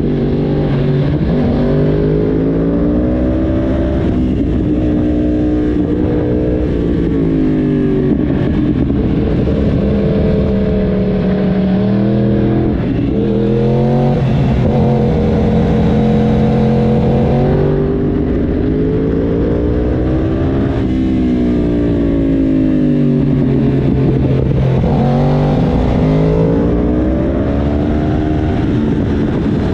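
Yamaha YZF-R1 crossplane inline-four engine heard from onboard, its revs climbing under throttle and dropping back several times as the rider accelerates and eases off. Wind rushes over the microphone underneath.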